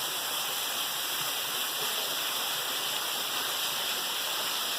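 Small waterfall splashing into a pool: a steady, even hiss of falling water.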